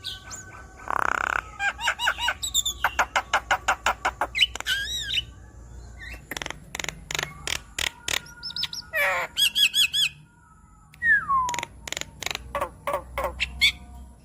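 Javan myna (jalak kebo) singing a varied, chattering song: fast runs of clicking and rattling notes mixed with harsh squawks and whistled notes, including a falling whistle, with a short pause about ten seconds in.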